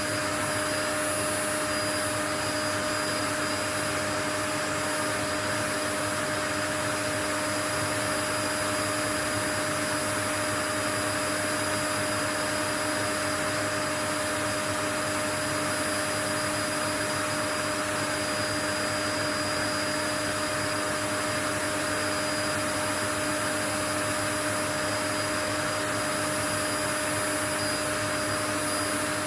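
Steady white noise: an even, unchanging rushing hiss, strongest in the middle range, with faint steady hum tones running under it, like an appliance motor.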